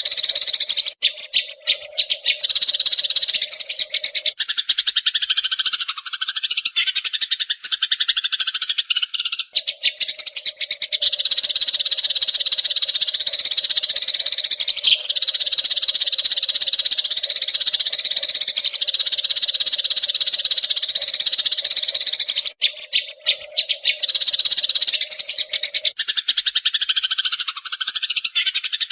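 Eurasian tree sparrows chirping in a dense, rapid, unbroken chatter. The chatter shifts to a lower, rougher run at about four seconds and again near the end. A steady low hum sits under much of it.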